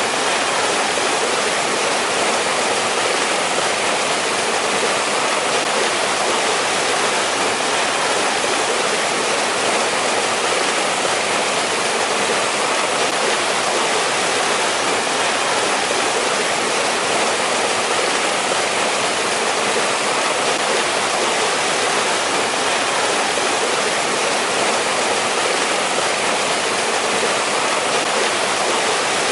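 Water of a valley stream rushing over rocks: a steady, even rush with no change.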